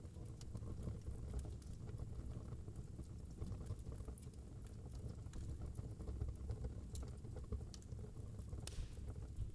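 Wood fire burning in a fireplace: a steady low rumble with scattered crackles and pops, and a brief hiss near the end.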